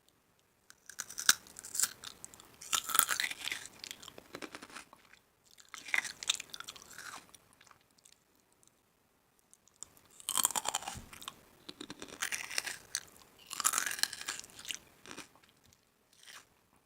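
A person biting and chewing crunchy food, in three spells of crackling crunches with short pauses between them.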